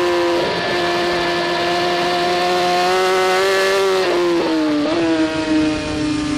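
BMW S1000RR superbike's inline-four engine running hard at high revs on board, with a high steady note that dips briefly twice near the end, over a rush of wind noise.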